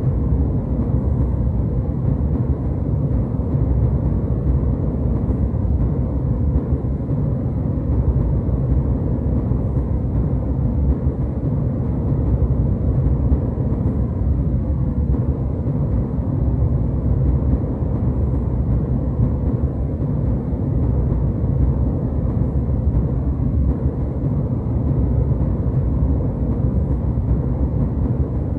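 Jetliner cabin noise: a steady, deep engine rumble with airflow hiss, unchanging throughout.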